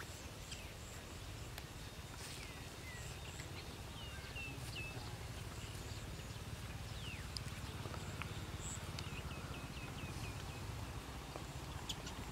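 Small birds chirping here and there across an open field, with a quick run of chirps about nine seconds in, over a steady low rumble.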